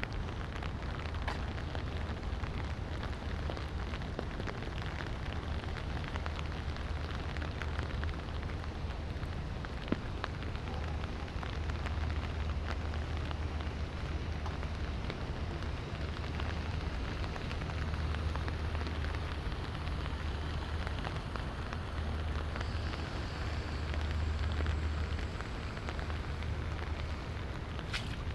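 Light rain falling, with many small drops ticking on surfaces over a steady hiss. A low rumble sits underneath, and there is one sharp click about ten seconds in.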